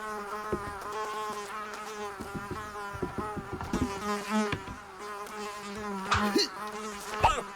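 A flying insect buzzing: a steady, slightly wavering drone, with a few soft knocks.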